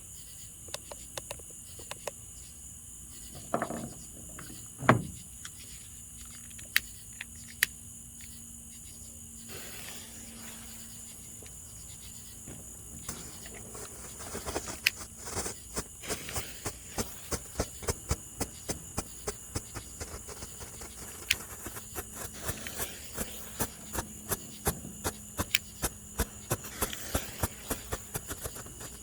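Strobe fireworks popping in a rapid, irregular series of sharp cracks, roughly two a second through the second half, after a few scattered pops and a single louder knock about five seconds in. Crickets chirp steadily throughout.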